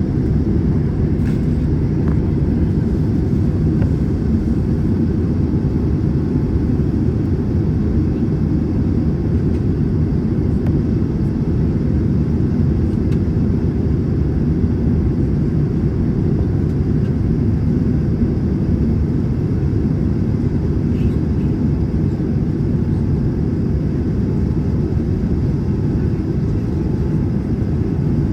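Airbus A321 cabin noise in flight: a steady, even low rumble of engine and airflow noise that does not change.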